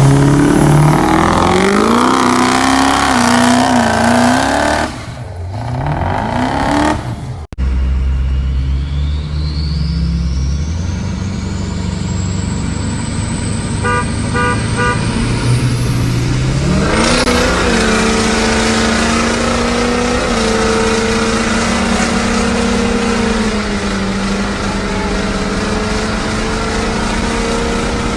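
Diesel pickup truck engines revving and running across several clips, with a sudden cut about seven seconds in. After the cut a high whine climbs steadily in pitch for several seconds. Near the middle an engine revs up and then runs at a steady pitch.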